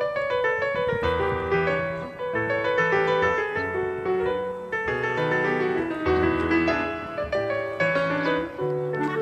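Background music played on piano: a flowing melody of quick notes over a low bass line.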